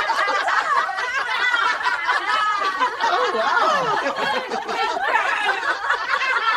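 People laughing hard and continuously, with high-pitched snickering and wavering giggles that don't let up.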